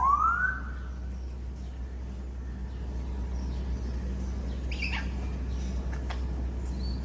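African grey parrot whistling: one rising whistle at the start, then a few short, sharp calls about five seconds in.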